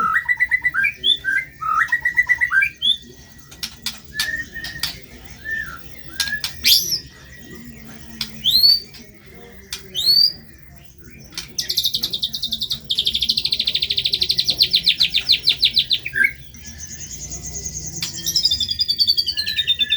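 White-rumped shama (murai batu) singing a loud, varied song: quick whistled phrases, sharp upward-sweeping notes, then a fast buzzing trill held for about four seconds and a falling rattled series near the end.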